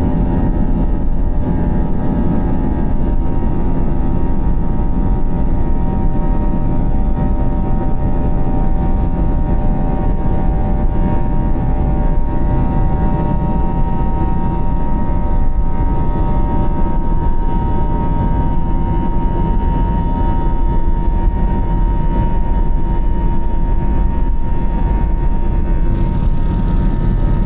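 The A321's IAE V2500 turbofan engines at high thrust, heard from inside the cabin: a steady, loud roar with a set of steady buzzsaw tones from the fan. A brighter hiss joins near the end.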